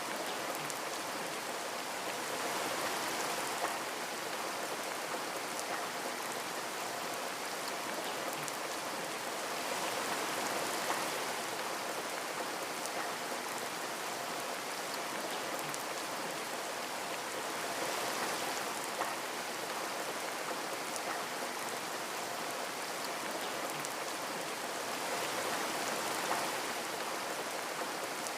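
Steady rain falling on a window, an even hiss that swells gently about every eight seconds, with a few louder single drops.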